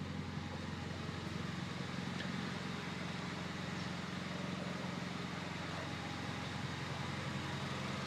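A 2008 Honda Civic's R18 1.8-litre four-cylinder idling steadily through a Skunk2 Megapower cat-back exhaust and Weapon R header, giving a very deep exhaust note that is not raspy at all.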